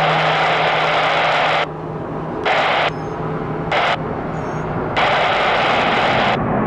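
Air traffic control radio hiss: transmissions keyed with no voice, a band-limited static that cuts in and out abruptly, about four times, the first and last lasting over a second each. Under it a steady low hum runs on.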